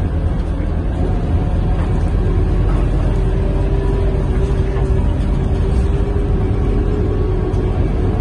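Scania K230UB city bus heard from inside the cabin while riding: a steady engine and road rumble. A steady whine joins it about three seconds in.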